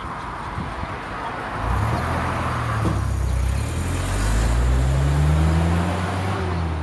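A motor vehicle's engine running close by, growing louder about two seconds in and rising slightly in pitch before easing off near the end.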